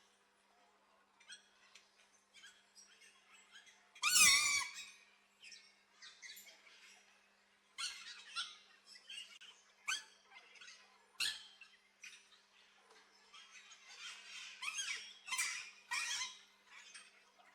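Aviary birds chirping and calling in short bursts, with one loud, harsh squawk about four seconds in and a busier run of calls near the end.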